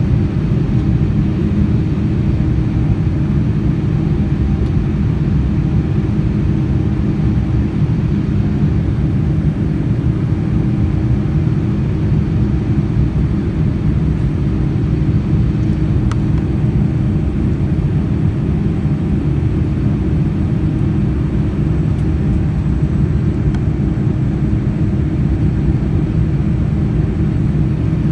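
Steady cabin noise inside a Boeing 787-9 in flight: a constant low rumble of engines and airflow, with a few steady hums under it and no change in level.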